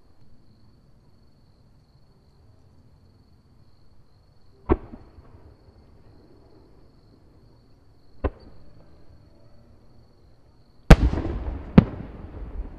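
Aerial firework shells bursting: single sharp bangs about five and eight seconds in, then two louder bangs close together near the end, followed by a rolling rumble.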